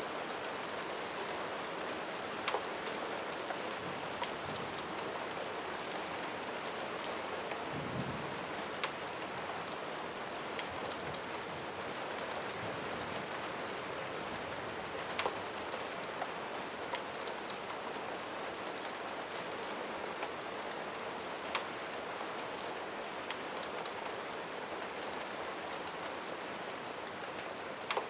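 Steady rain falling on a surface, with scattered sharp ticks now and then and a brief low rumble about eight seconds in.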